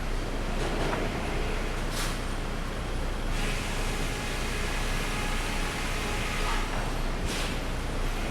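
Sawmill machinery running steadily with a low hum. Two short hissing bursts come about two seconds in and near the end, and the sound turns harsher for a few seconds in the middle.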